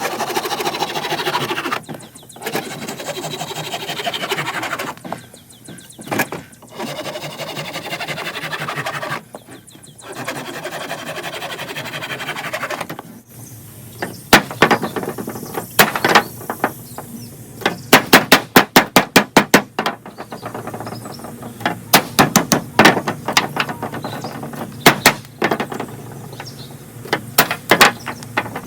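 Wood being broken and handled to feed a small fire: a rough rustling and scraping, then, from about halfway, many sharp wooden cracks and knocks, with a quick run of about ten in a row.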